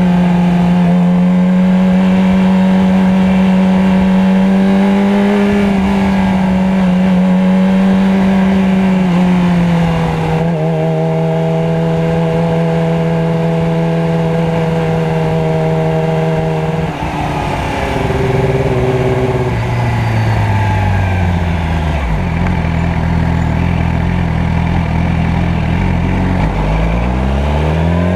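Motorcycle engine holding a steady pitch for more than half the time, then dropping abruptly as the throttle closes and sinking lower as it slows. Near the end it revs up again with a rising pitch.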